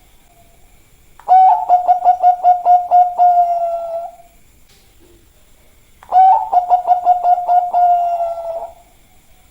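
Bangkok-type zebra dove (perkutut) cooing, two song phrases. Each opens with a rising note, runs into a quick series of short coos, and ends in a long held note.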